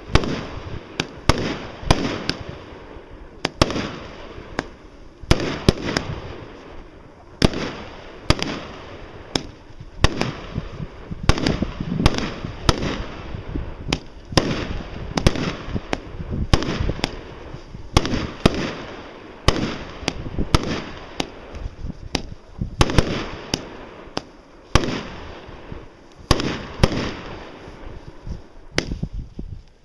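Consumer fireworks going off in a steady barrage: sharp bangs come irregularly, often several a second, with a noisy rumble and echo between them.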